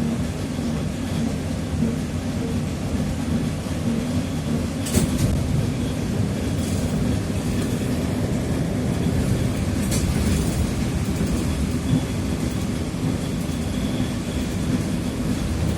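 TrolZa-5275.05 'Optima' trolleybus under way, heard from inside: a steady low rumble of its DK-213A traction motor, Ishimbay rear axle and running gear, with a faint steady high whine. Two sharp knocks come about five and ten seconds in.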